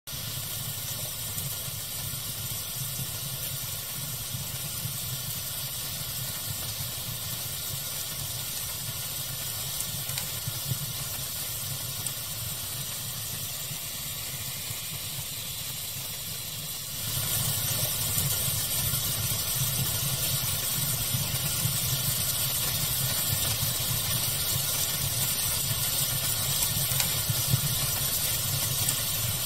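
Steady hiss of pink noise layered with a crackling fire, with occasional small pops. A little past halfway the whole noise steps up louder and stays there.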